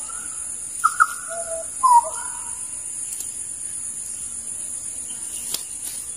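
Wild birds giving a few short whistled calls, some gliding in pitch, about one to two seconds in, over a steady high-pitched insect drone.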